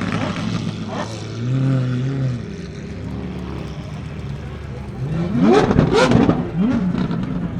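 Supercar engines running as the cars drive off. About five and a half seconds in, several quick rising revs overlap, the loudest moment.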